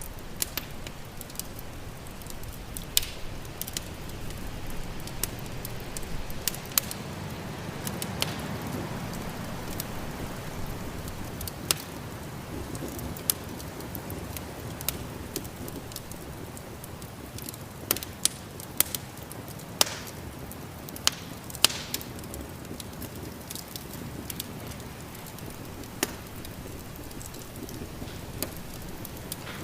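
Wood fire crackling in a fireplace, with sharp irregular pops that come thickest in a run after the midpoint, over a steady low rush of snowstorm wind that swells briefly about a quarter of the way in.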